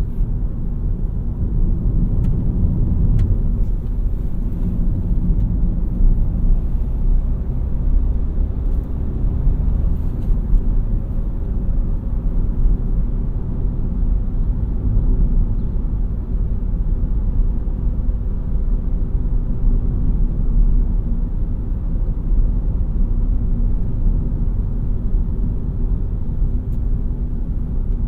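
2017 Renault Mégane TCe 100 on the move, its 1198 cc four-cylinder engine and the road noise making a steady low rumble.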